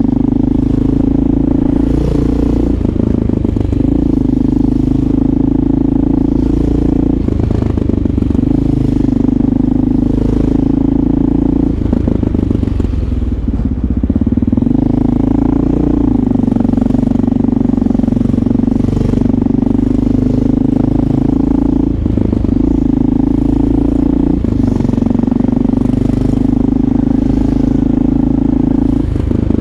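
Motorcycle engine running while riding, its tone steady for stretches and shifting up and down every few seconds with throttle and gear changes.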